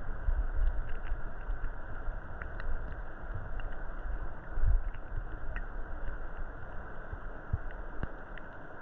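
Muffled creek water heard through a submerged camera: a steady low rumble and swish of current with scattered faint clicks.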